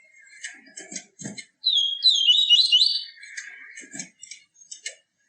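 Papa-capim (yellow-bellied seedeater) singing: scattered short chips, then a bright, fast warbling phrase of high notes about two seconds in, followed by more chips.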